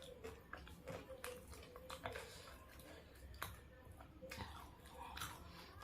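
A person chewing food close to the microphone, with soft scattered mouth clicks and smacks, while eating fried chicken with sambal and raw basil leaves.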